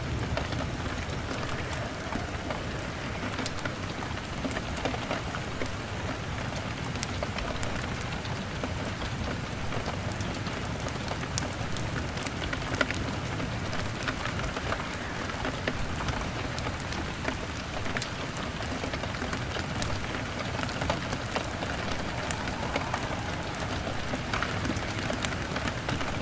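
Steady rain pattering on a window, mixed with a log fire crackling, scattered sharp crackles over the hiss.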